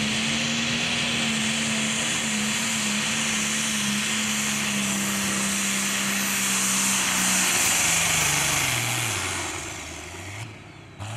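Pro Stock pulling tractor's turbocharged diesel engine running at high, steady revs under full load during a pull. Near the end the engine note falls away and fades as the pull finishes, the motor having turned a little rough.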